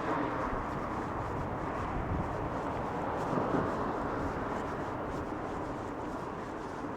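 City street traffic noise: a steady wash of passing vehicles that slowly fades away.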